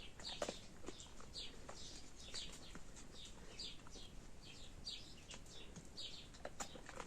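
A small bird calling over and over, short falling chirps about two a second, with a few light clicks.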